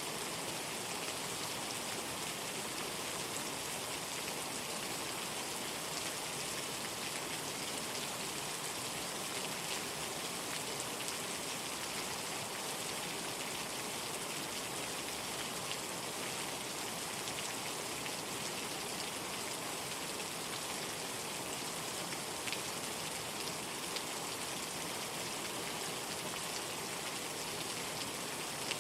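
Steady rain falling: an even hiss with scattered, slightly louder drop taps.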